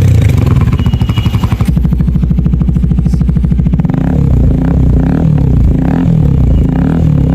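KTM Duke 390 single-cylinder engine running through an aftermarket Akrapovic exhaust. It idles with an even pulse, then about four seconds in the throttle is blipped again and again, the revs rising and falling in quick short pulls.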